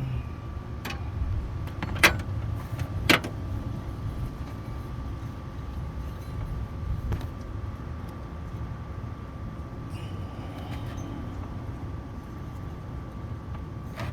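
Sharp metallic clinks of hand tools and engine parts, three of them in the first few seconds, the second the loudest, over a steady low rumble.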